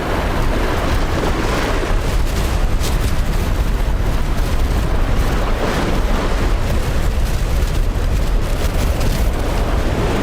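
Strong wind buffeting the microphone in a loud, continuous rumble, mixed with the wash of rough seas.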